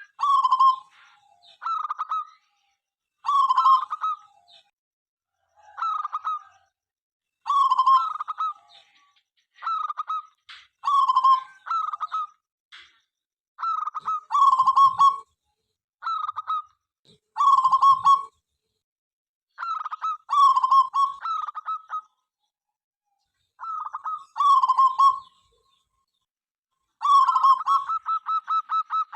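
Zebra dove (perkutut) cooing: short phrases of clipped coos repeating every one to two seconds, with a faster run of notes near the end.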